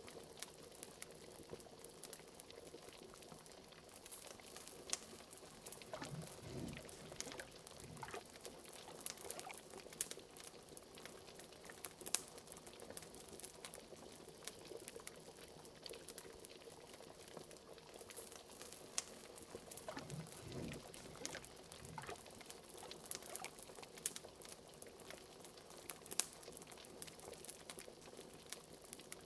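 Liquid bubbling at a steady boil, as in a cauldron, with sharp crackling pops from a wood fire throughout. A few deeper gurgling bubbles come about six seconds in and again about twenty seconds in.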